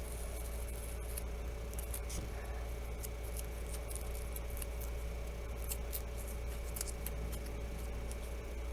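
Scattered light clicks and crinkles of small phone parts and adhesive film being handled during a screen replacement, over a steady electrical hum.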